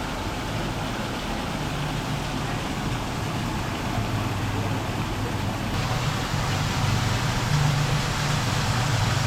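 Steady rushing background noise with a low hum underneath; the hiss turns a little brighter about six seconds in.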